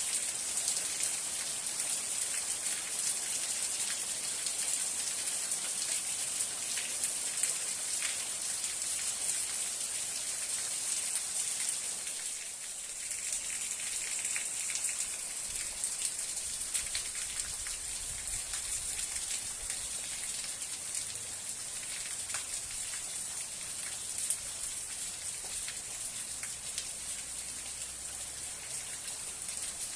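Steady rainfall: a dense, even hiss with individual drops ticking through it. The hiss thins briefly about twelve seconds in, then carries on.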